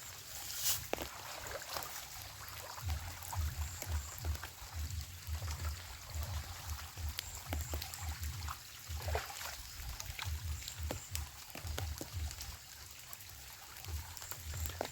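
Water trickling and pouring through a shallow channel, with scattered small splashes or clicks and an irregular low rumble underneath.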